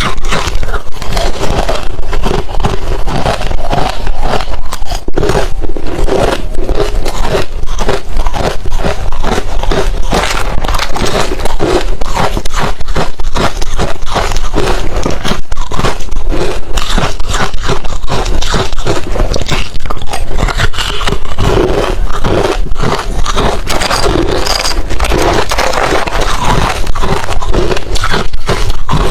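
Close-miked crunching of hard refrozen crushed ice being bitten and chewed, a continuous run of sharp crackling crunches.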